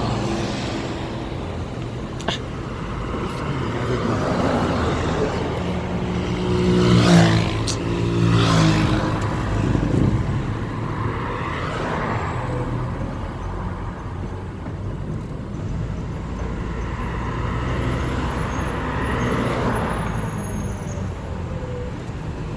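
Road traffic: cars and other motor vehicles driving past one after another, each swelling and fading, with a low engine drone. The loudest vehicle passes about a third of the way in. A single sharp click comes about two seconds in.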